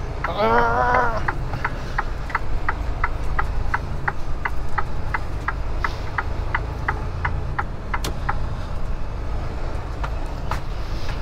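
Inside a truck cab: the engine runs with a steady low rumble while the turn-signal indicator ticks evenly, about three clicks a second. A short wavering hum of a voice comes near the start.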